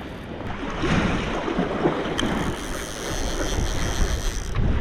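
Wind buffeting the microphone over water sloshing, with irregular low splashes and knocks.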